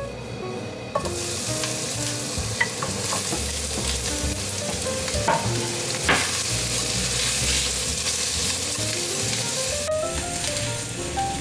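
Sliced bitter melon sizzling in hot sesame oil in a frying pan, the sizzle starting suddenly about a second in as the slices hit the oil, then stir-fried with cooking chopsticks, with a few sharp clicks against the pan.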